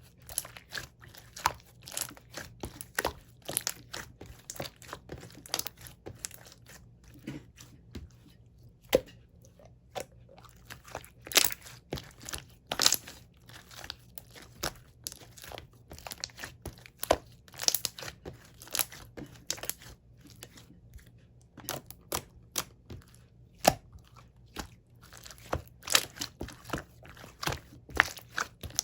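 Hands squishing and poking slime, giving a dense, irregular run of sharp clicks and pops, with two short lulls.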